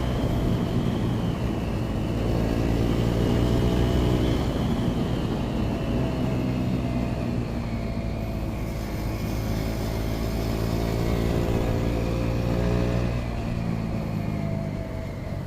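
KTM Duke 200's single-cylinder engine running through an Akrapovič titanium slip-on exhaust, holding a fairly steady speed with gentle rises and falls in pitch. A high thin whine slowly drops in pitch across the stretch. The exhaust note is not very loud but has a strong bass.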